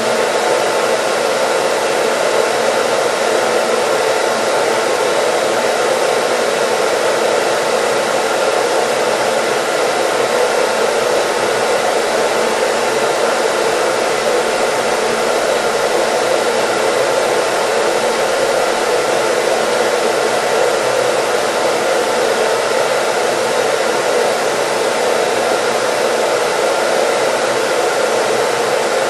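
Hair dryer running steadily: a constant, unchanging rush of blown air with faint even tones from the motor.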